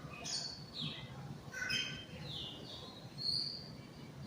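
Birds calling: several short phrases of high notes, each stepping down in pitch.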